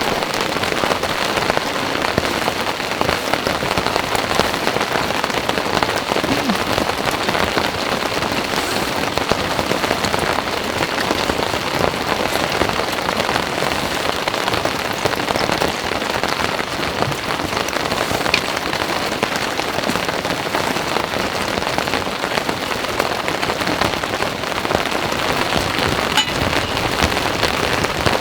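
Heavy rain falling steadily, a dense, even patter of many drops with no let-up.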